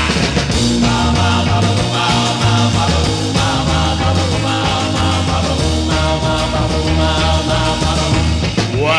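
Instrumental break in a 1960s rock-and-roll record: a band playing without singing over a steady, moving bass line.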